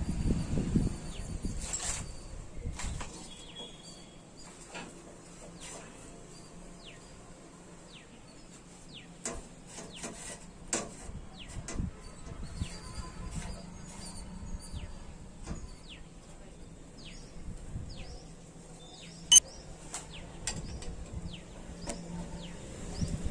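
Small birds chirping repeatedly with short falling calls, over scattered light clicks and knocks and a faint steady hum; one sharp click stands out about nineteen seconds in.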